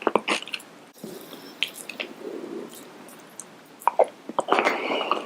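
Close-miked chewing and mouth sounds of a person eating, with a run of sharp clicks at first, a quieter stretch in the middle, and a louder burst of chewing near the end.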